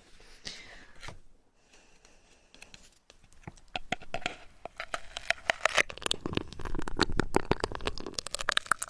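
Close-miked ASMR crinkling and crackling: after a quiet start, dense rapid irregular crackles begin about three seconds in and grow louder.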